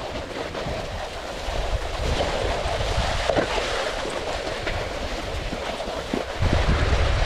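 Snowboard sliding over snow while being pulled along, a steady scraping hiss, with wind rumbling on the microphone that gets heavier near the end.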